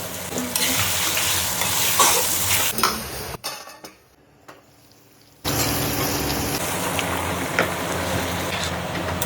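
Curry frying and sizzling in a pot while it is stirred, with occasional clicks and scrapes of the spoon against the pot. The sound drops away for about two seconds a little past the middle, then carries on.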